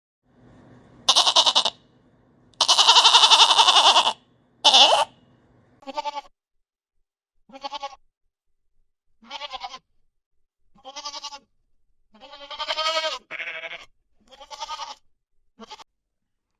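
Goats bleating: three loud, harsh bleats in the first five seconds, the middle one long, then a string of shorter, quavering bleats about every one to two seconds.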